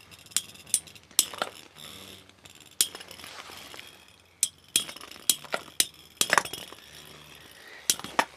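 Metal Beyblade spinning tops clashing: a dozen or so sharp metallic clinks, each with a short ring, coming at irregular intervals over a faint hiss.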